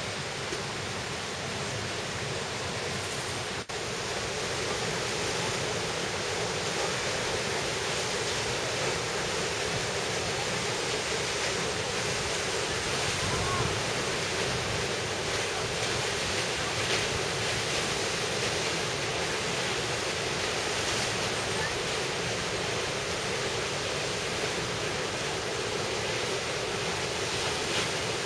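Steady rush of water from a mountain valley stream or waterfall.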